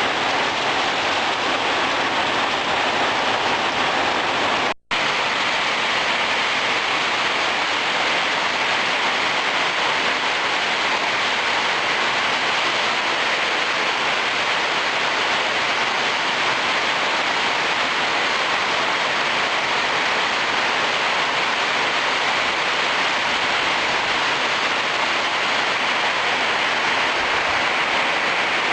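Heavy rain pouring down in a steady, dense hiss. The sound drops out completely for an instant about five seconds in.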